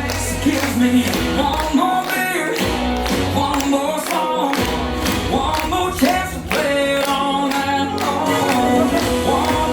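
Live band music: a singer's lead vocal over a steady drum beat and bass.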